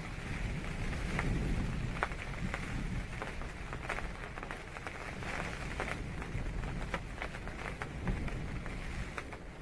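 Rain falling on a tent, individual drops clicking sharply over a steady hiss, with a low rumble easing off in the first second or two.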